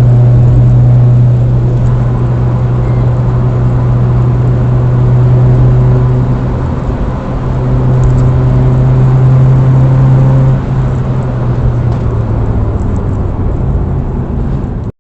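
Steady low drone of a moving vehicle's engine and road noise, which dips slightly about ten and a half seconds in.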